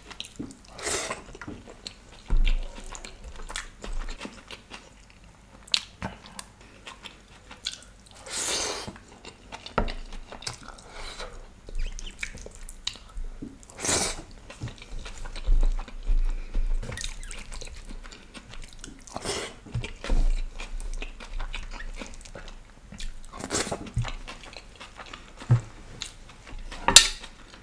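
Close-miked eating sounds: a man chewing handfuls of curry-mixed rice eaten with his fingers, with irregular wet mouth noises and sharp little clicks.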